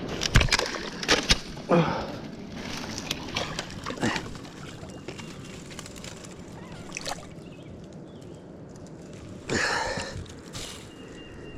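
Shallow river water splashing and sloshing as a landed smallmouth bass is handled and let go at the bank. There are several sharp splashes in the first few seconds, another around seven seconds in, and a longer splash about nine and a half seconds in, over a steady rush of moving water.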